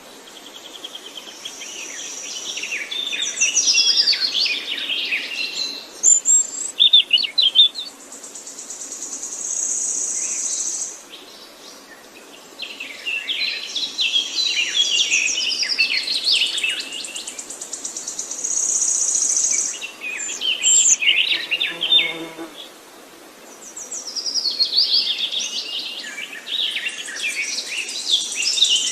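Several songbirds singing overlapping chirps and warbling phrases in bouts a few seconds apart. A high, steady buzzing trill swells and fades several times between them.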